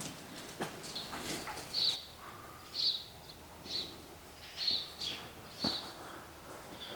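A bird calling a short, high chirp over and over, about once a second, with a few faint knocks, such as footsteps, underneath.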